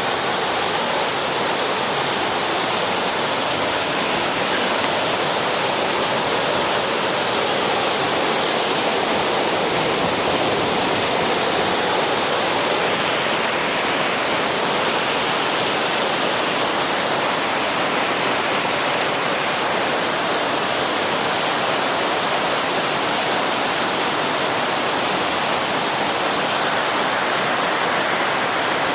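Waterfall rushing: a loud, steady roar of falling water with no change in level.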